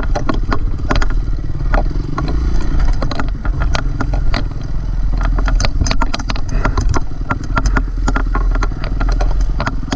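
Dirt bike engine running steadily at low revs while riding single-track trail, with frequent sharp clicks and clatter over the drone.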